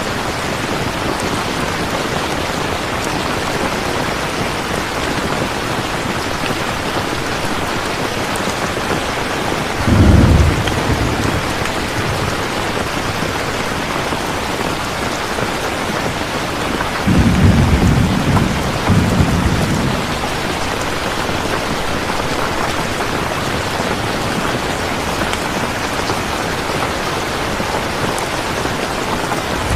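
Steady heavy rain, with two deep rolls of thunder: a short one about a third of the way in and a longer one a little past the middle.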